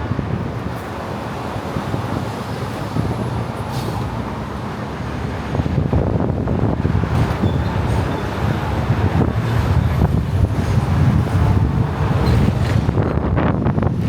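City road traffic: a steady hum of passing vehicles, which grows louder with a heavier low engine rumble about six seconds in.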